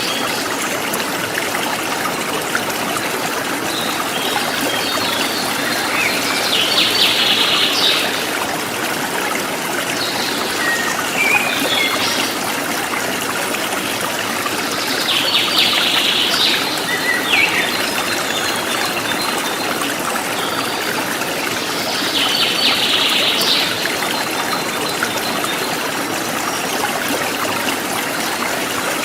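River water flowing steadily over stones, a continuous rushing trickle. Bird calls come through every several seconds, about five times.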